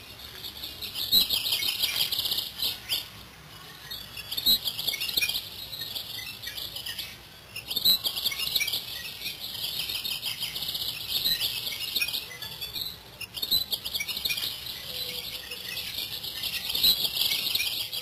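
A songbird singing: long runs of high, rapid warbling broken by brief pauses every few seconds.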